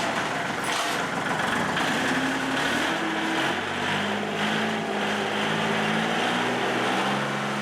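A motor vehicle's engine running steadily, its pitch shifting slightly up and down, over a loud even hiss.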